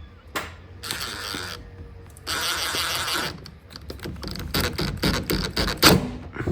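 Hand-tightening a bolt behind a car's plastic trim panel: two bursts of scraping and rustling, then a quick run of sharp clicks as the bolt is driven in.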